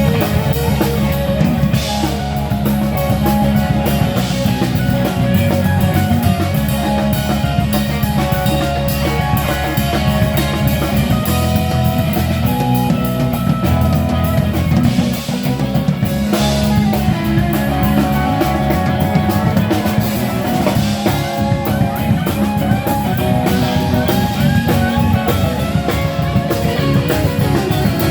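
Live band playing an instrumental stretch: guitar over a steadily played drum kit.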